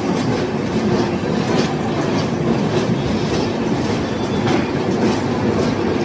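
Train running past at speed: a steady rumble of coaches, with the wheels clicking sharply and repeatedly over rail joints.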